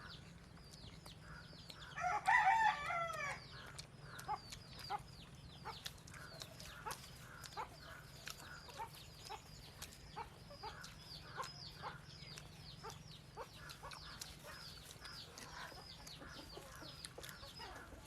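A rooster crows once about two seconds in, its call falling in pitch over roughly a second and a half, against a steady run of short, high, repeated bird chirps.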